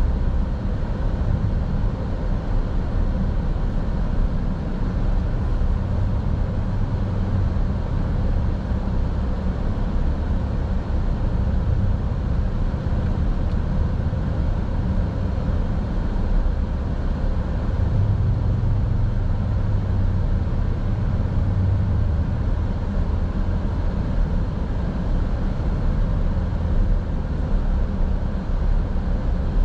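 Steady low road rumble of a car being driven, heard from inside the cabin: tyre and engine noise at an even level.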